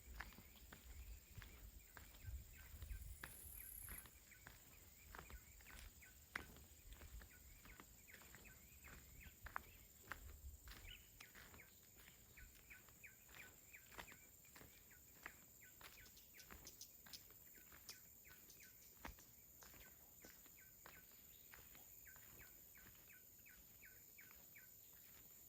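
Near-silent outdoor ambience: scattered soft clicks and ticks, faint repeated high chirps, and a low wind rumble in the first few seconds and again around ten seconds in.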